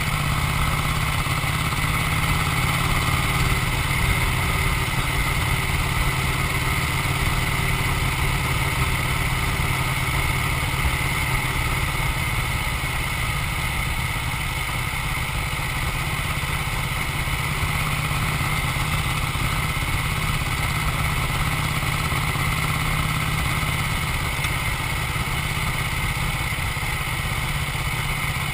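Vincent 998 cc 50° V-twin motorcycle engine running steadily, with no clear revs.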